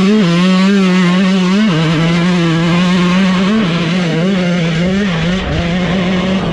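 Two-stroke dirt bike engine revved and held at a high, steady pitch, with several short throttle blips.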